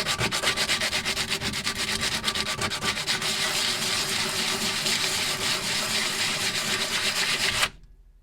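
Rapid, even strokes of abrasive rubbing on the rusty steel of an old hammer as the rust is worked off. The rubbing cuts off suddenly near the end.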